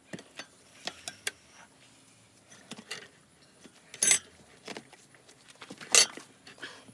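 Steel tire levers clinking and scraping against a motorcycle wheel rim while a tire bead is worked on by hand, with two louder metallic clanks about four and six seconds in.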